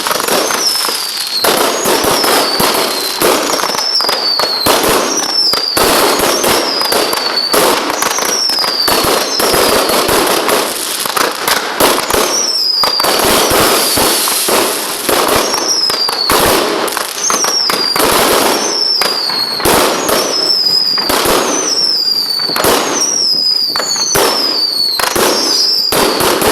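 Fireworks going off without pause: dense crackling and sharp pops, with a short whistle falling in pitch about every second or so.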